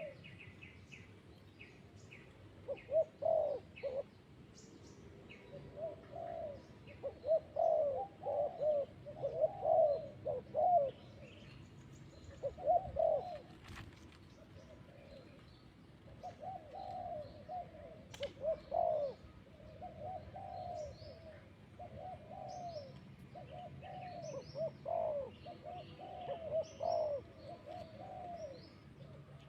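Spotted doves cooing in repeated phrases, with small birds chirping high and faint throughout.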